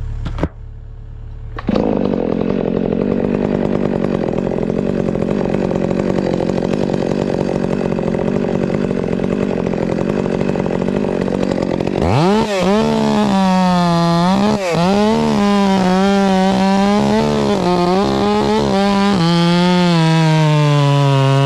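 Chainsaw running, then from about halfway revved hard and cutting through a limb, its engine pitch dipping and recovering again and again as the chain loads up in the wood.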